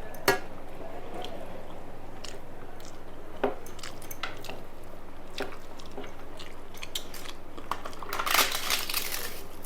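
A person chewing and biting into food close to the microphone, with scattered crisp clicks and a denser burst of crunching about eight seconds in.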